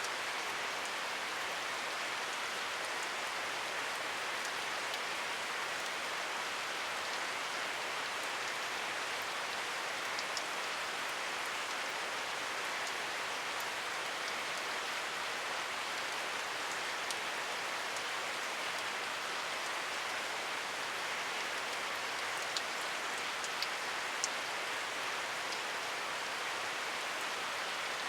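Steady rain falling, an even hiss with a few sharper individual drop ticks.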